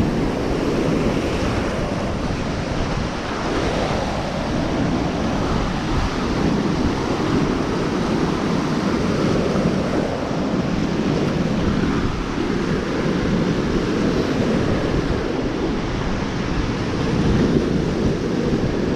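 Steady rush of surf breaking on a lakeshore, mixed with wind on the microphone, swelling and easing slowly.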